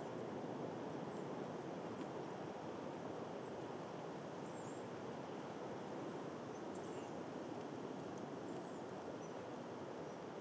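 Steady outdoor wind noise with a few faint, short, high bird chirps now and then.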